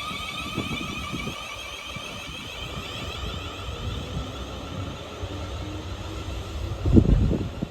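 Class 444 Desiro electric multiple unit pulling away, its traction motors giving a steady high whine of several tones that slowly fades, over a low rumble. A short loud low rumble comes about seven seconds in.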